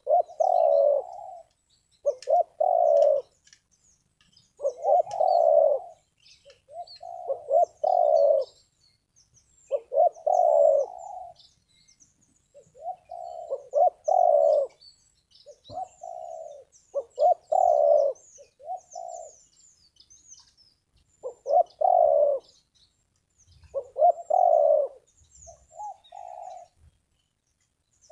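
Spotted dove (terkukur) cooing: about a dozen short, multi-note coo phrases, one every two to three seconds. Faint high chirps from small birds sound in between.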